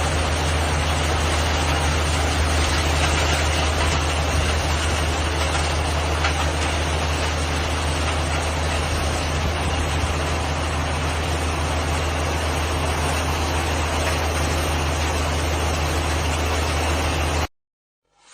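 Truck-mounted crusher's engine and machinery running steadily, with a strong low hum under an even mechanical din. It cuts off suddenly near the end.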